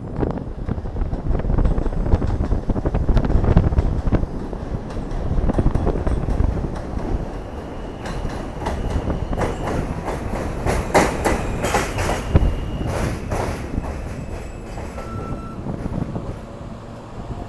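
New York City subway F train running along the track: a heavy rumble that comes in abruptly, then rapid clicking of wheels over rail joints from about halfway through, with a thin wheel squeal.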